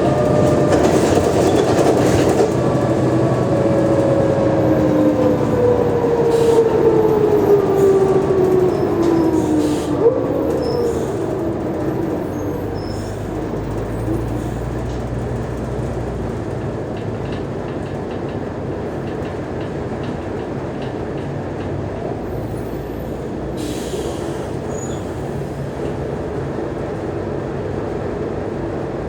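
Mercedes-Benz O345G articulated bus's drivetrain whining as the bus slows: several whining tones glide steadily downward over the first ten seconds or so, with a single knock about ten seconds in. After that the bus runs on more quietly and steadily at a low rumble.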